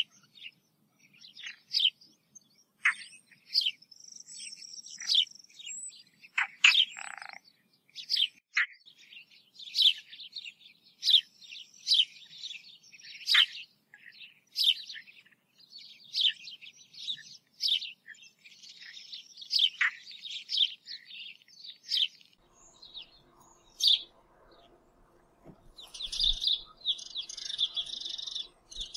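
Small birds chirping in many quick, sharp, downward-sweeping calls, dense and continuous. A faint steady hum comes in about three-quarters of the way through, and there is a soft low thump near the end.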